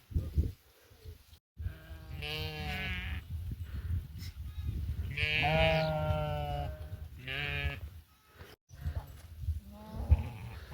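Sheep bleating: three wavering bleats, the middle one the longest and loudest.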